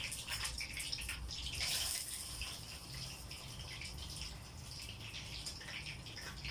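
Breaded chicken cutlets sizzling in hot frying oil, a steady crackling hiss.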